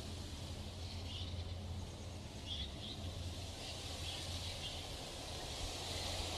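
Several short, faint high bird chirps scattered through a few seconds, over a steady background hiss and low hum.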